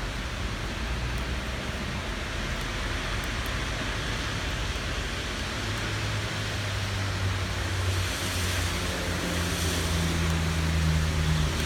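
Steady rain falling, with the low hum of a vehicle engine building up from about halfway through.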